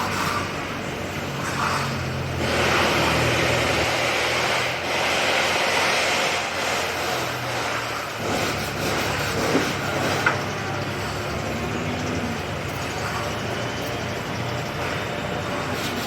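A motor running steadily with a low hum, with two short knocks about ten seconds in.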